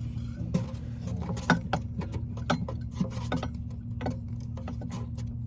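Irregular small metallic clicks and taps from working a stuck exhaust VVT solenoid loose in the engine, over a steady low hum.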